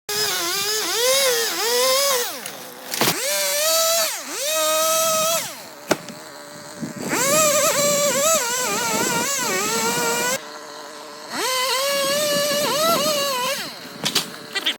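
Gas chainsaw running at high revs in about four bursts, its pitch repeatedly dipping and recovering as it loads in the cut, while cutting up a diseased American beech.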